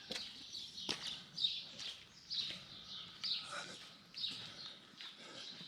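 A bird chirping outdoors, a short high call repeated about once a second.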